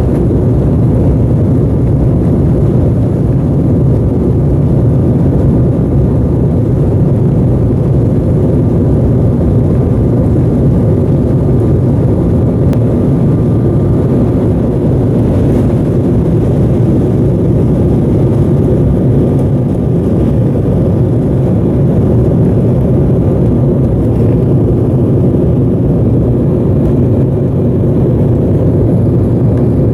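Steady, loud cabin noise of an Embraer 190 airliner: the hum of its GE CF34 turbofan engines and airflow heard from inside the cabin, with a faint steady whine.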